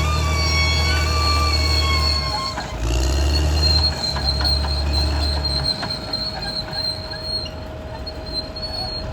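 Caterpillar D6R XL crawler bulldozer working, its diesel engine running under a steady high squeal from the steel tracks. About six seconds in, the engine note drops away, leaving the track squeal and light clanking.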